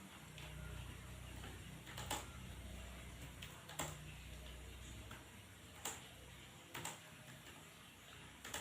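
A few separate computer keyboard keystroke clicks, one every second or two, over a faint low hum that fades out about five seconds in.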